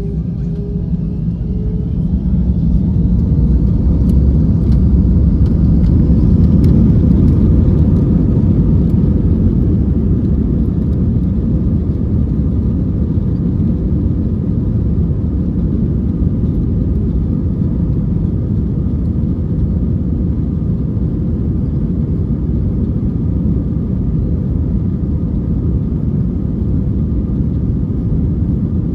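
Airbus A321 jet engines spooling up, their whine rising in pitch over the first few seconds as the noise grows, then a loud steady rumble at takeoff thrust.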